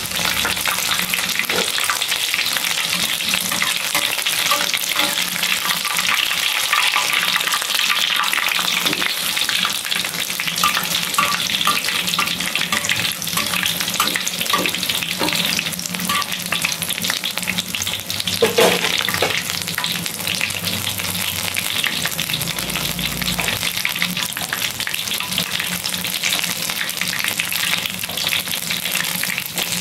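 Batter-coated stuffed tofu (tahu isi) deep-frying in hot oil in a wok, giving a steady, dense sizzle and crackle. There is a brief knock about two-thirds of the way in.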